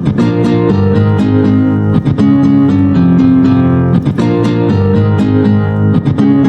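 Music: an acoustic guitar strumming chords, the chords changing every second or so.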